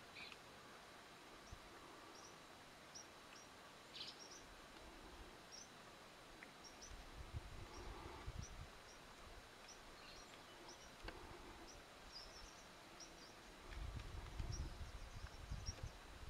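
Quiet outdoor ambience: faint, short, high bird chirps repeating every second or so, with two stretches of low rumble about seven and fourteen seconds in.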